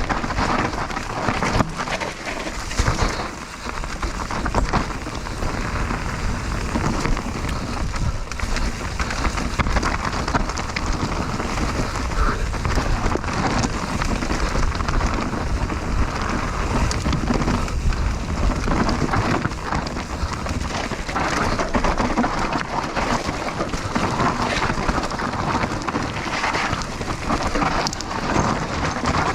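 Mountain bike riding fast down a dirt trail: a steady rush of wind on the camera microphone and tyres on loose earth, with continual rattling knocks from the bike over bumps.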